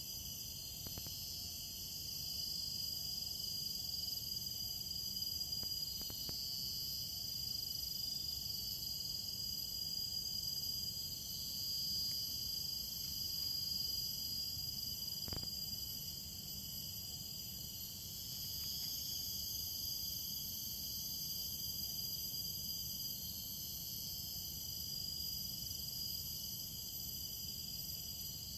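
Steady chorus of insects, several high-pitched chirring tones layered on top of each other and swelling slightly now and then, with one faint click about halfway through.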